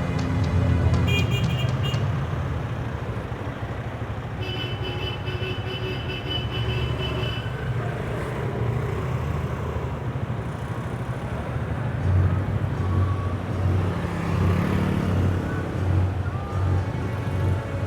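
Road traffic with vehicle engines running, a low rumble that swells and pulses in the second half, under background music. Short high steady tones sound about a second in and again for a few seconds around the middle.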